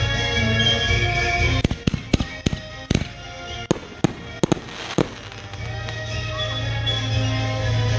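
Fireworks going off in a quick string of about ten sharp bangs over roughly three seconds, starting about one and a half seconds in, with some crackle after a few of them. Music plays throughout.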